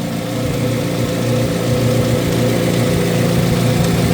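2024 Corvette C8 Z06's LT6 flat-plane-crank V8 idling steadily through a nearly straight-piped exhaust, with no exhaust leaks to be heard.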